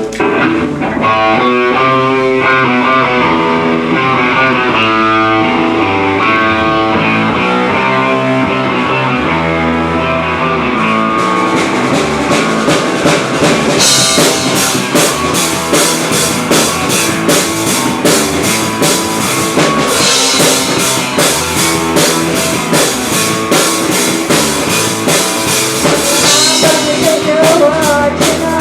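Live rock band starting a song. Guitar leads at first, then the full drum kit comes in with cymbals about halfway through.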